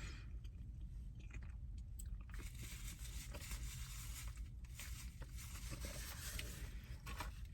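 A person chewing food close to the microphone.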